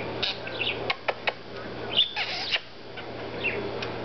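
Pet parakeet chattering excitedly in rapid chirps and warbles as it runs through its mimicked words. There are a few sharp clicks about a second in and a louder burst of chatter about halfway through.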